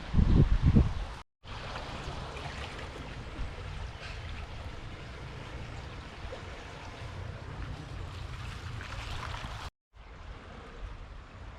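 Rushing water of a river in flood, a steady hiss. In the first second, wind buffets the microphone with a loud low rumble. The sound drops out briefly twice, about a second in and near the end, where clips are cut together.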